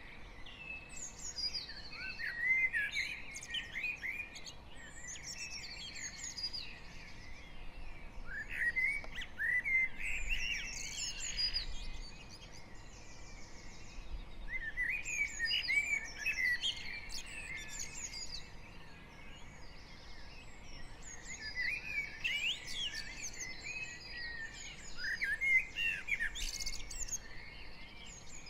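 Dawn chorus of garden songbirds: several birds singing at once, with overlapping high chirps, whistles and trills that swell and ebb in bouts every few seconds.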